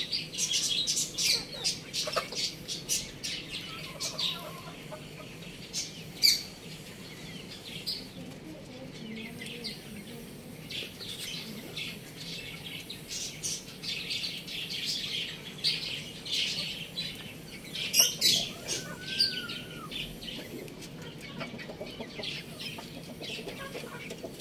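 Many small birds chirping, high and quick, with a few sharper, louder calls about six seconds in and again near eighteen seconds.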